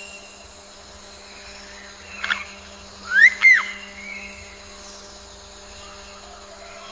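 Three short, whistle-like animal calls: one about two seconds in, then two rising calls close together just after three seconds, over a faint steady hum.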